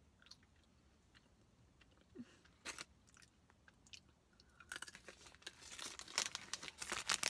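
Close-up crunching of a raw almond being bitten and chewed, a few sharp cracks at a time. Near the end a clear plastic snack wrapper starts crinkling as it is handled.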